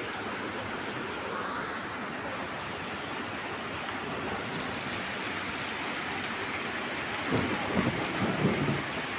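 Steady hiss of heavy rain, with a few low thumps near the end.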